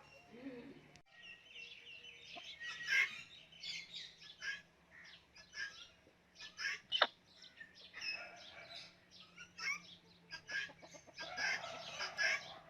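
Several birds calling at once: a busy, irregular string of short squawks and chirps that starts about a second in.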